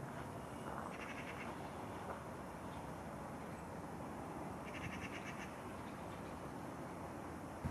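A bird giving two short, rapid chattering calls, one about a second in and another about five seconds in, over steady outdoor background noise.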